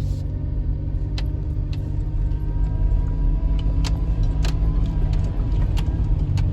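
Four-wheel-drive's engine running steadily with a deep rumble, under scattered sharp knocks and clicks.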